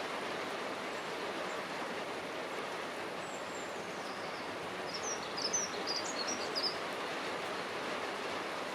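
Dunnock singing one short, fast, high warbling phrase about five seconds in, over steady background noise.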